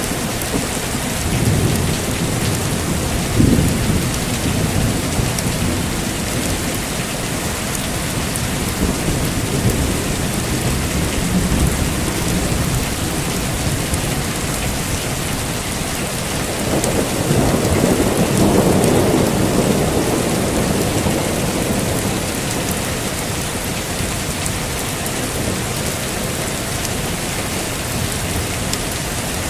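Heavy rain falling steadily, with rolling thunder rumbling low in the background; the largest roll of thunder swells up about two-thirds of the way through and fades away.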